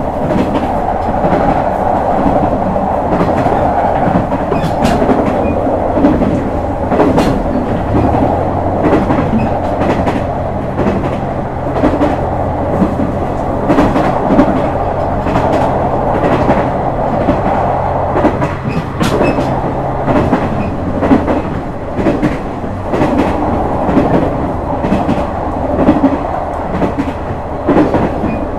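JR West KiHa 126 series diesel railcar running, its wheels clicking rhythmically over rail joints. A steady low engine drone comes in about a quarter of the way through and drops away about two-thirds through.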